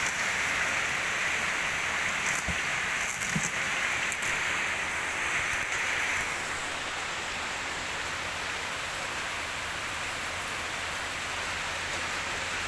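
Steady hiss of water spraying from an H&L QL-1200 jet cleaner (pressure washer), a little brighter for the first six seconds and then even, with a few faint clicks early on. It cuts off abruptly at the end.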